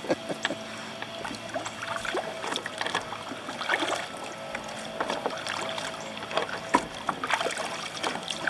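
Kayak paddling: paddle blades dipping and splashing in the water with irregular small knocks and clicks, one sharper knock near the end.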